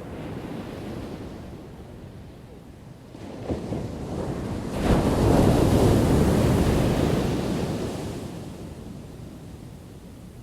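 Ocean waves on a shore: a low wash swells, then a wave breaks with a sudden loud crash about five seconds in and washes out over the next few seconds.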